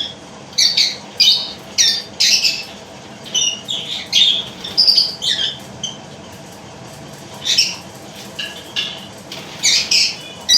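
A colony of caged lovebirds calling: many short, shrill squawks and chirps at irregular intervals, some in quick runs of two or three.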